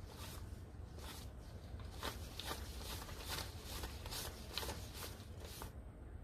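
Paper banknotes being counted by hand: a quick run of crisp rustling flicks, two or three a second, stopping shortly before the end, over a low steady hum.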